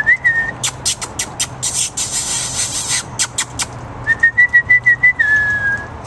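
Puppies whining in thin high-pitched tones: one short whine at the start, then a quick pulsing run of whines near the end that draws out into one long, slightly falling whine. Between them come sharp clicks and scuffling noise from the puppies at play.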